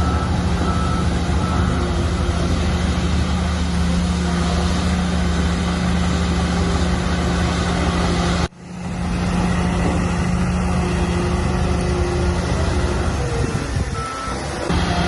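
Heavy diesel earthmoving machinery running steadily under load. The sound drops out abruptly about halfway through and comes back within a second, and a short high beep sounds near the end.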